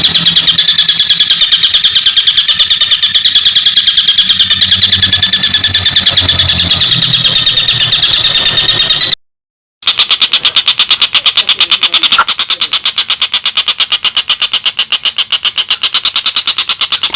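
Tengkek buto kingfisher giving its rapid rattling 'ngekek' chatter: a fast, unbroken run of harsh, high notes, many to the second. The sound cuts out for about half a second around nine seconds in, then the chatter resumes.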